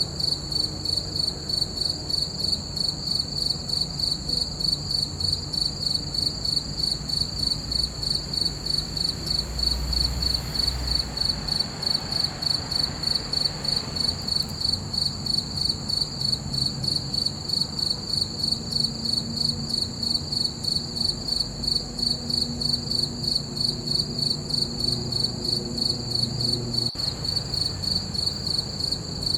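Crickets chirping: a high-pitched trill pulsing in an even, rapid rhythm, several chirps a second, without a break.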